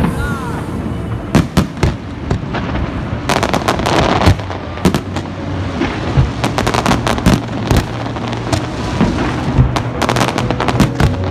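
Fireworks going off in quick succession: many sharp cracks and bangs, bunched into thick clusters of crackling.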